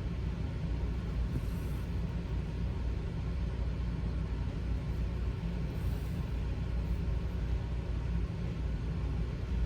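Steady low rumble of background noise, with faint brief hisses about one and a half and six seconds in.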